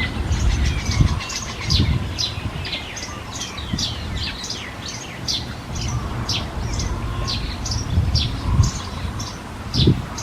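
A bird chirping over and over in short, high chirps, about two a second, over a low rumble with a few dull thumps.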